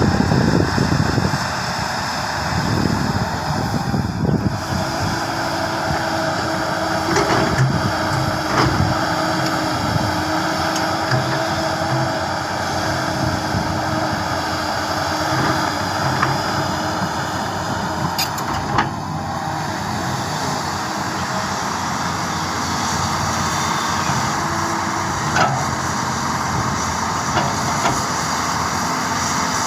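Excavator's diesel engine and hydraulics running under load, with a steady whine coming in a few seconds in and a few sharp knocks scattered through.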